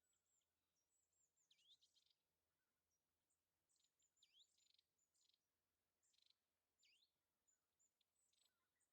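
Faint, high-pitched bird calls: short thin notes and quick downward-sweeping calls, repeated throughout.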